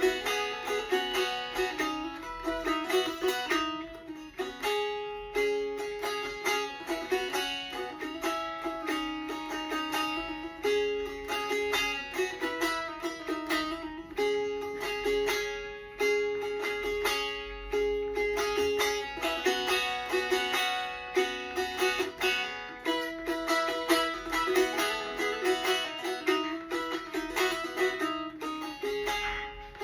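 A plucked string instrument played solo in an improvisation, with quick runs of plucked notes over ringing, repeated tones.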